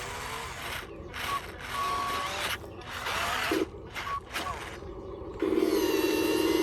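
Small electric gear motors of RC construction models whirring and clicking in short, choppy stretches. About five seconds in, a louder steady motor hum starts suddenly.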